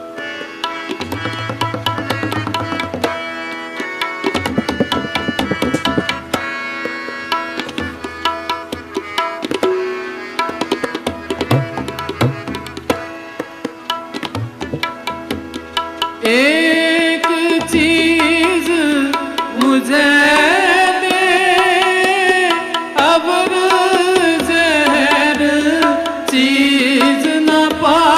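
Kirtan accompaniment: tabla playing a steady rhythm over a harmonium's sustained chords. About two-thirds of the way in, a louder gliding melodic line joins, most likely the ragi's voice in a wordless alaap in Raag Malaar.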